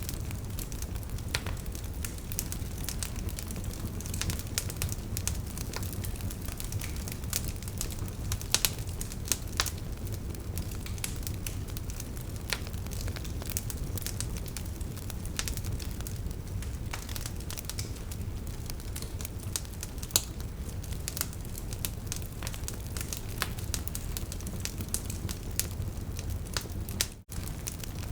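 Burning wood fire crackling, with irregular sharp pops and snaps of the logs over a steady low rumble of the flames. The sound drops out for a split second near the end.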